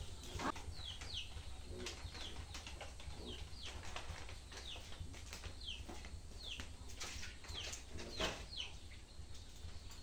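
A small bird chirping over and over in short downward-sliding chirps, about one or two a second, with a few knocks and clatters from things being handled, the loudest about eight seconds in.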